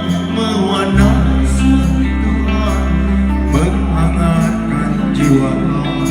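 Live band music: a song played on stage, with held bass notes that change about a second in and again a little after four seconds.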